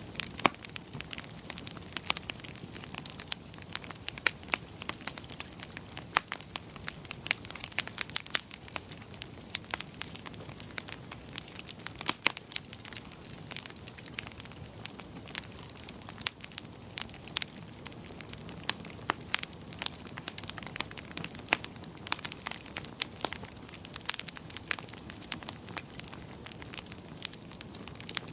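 Log firewood burning in a fire, crackling with frequent sharp, irregular pops over a steady low hiss.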